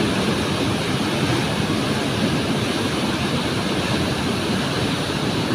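Swift mountain river rushing, a loud, steady roar of water.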